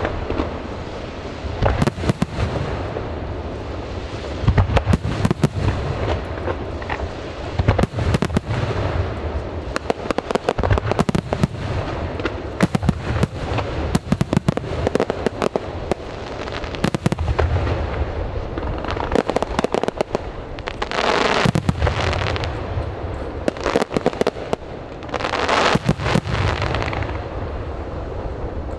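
Aerial fireworks going off in rapid succession: dense, continuous bangs and crackles. Two longer noisy swells come about three-quarters of the way through.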